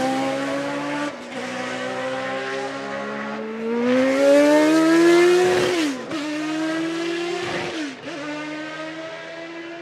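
Classic Formula 1 car engine running hard, its pitch jumping with each gear change and climbing steeply for about two seconds from around three and a half seconds in. It grows fainter over the last few seconds as the car draws away.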